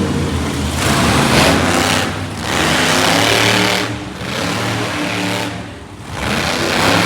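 Monster truck engine revving repeatedly, the throttle surging and easing off about four times.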